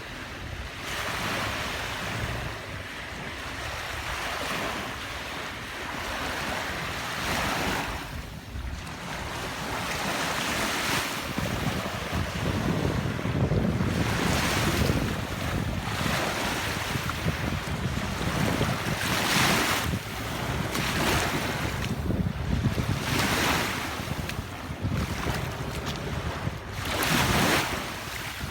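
Waves washing onto a sandy beach, the surf swelling and falling every few seconds, with wind buffeting the microphone as a low rumble, heavier in the second half.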